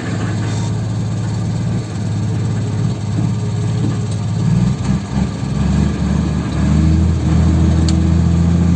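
Heavy diesel engine running steadily, growing a little louder near the end.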